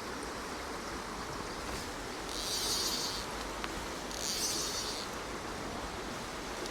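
Steady rush of a small stream's running water, with three short high-pitched buzzy bursts, each about a second long, a couple of seconds apart.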